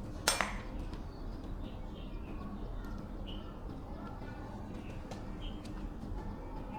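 A single sharp knock just after the start, over a steady low hum, with small birds chirping now and then in the background.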